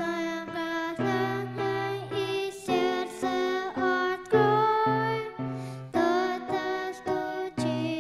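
A solo woman's voice singing a slow hymn-like song over sustained keyboard chords.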